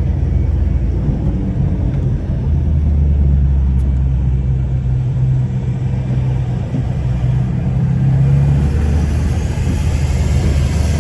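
Cabin drone of a 2015 BMW 328i with a downpipe, its turbocharged four-cylinder engine and tyres running steadily on a wet road. A hiss swells near the end.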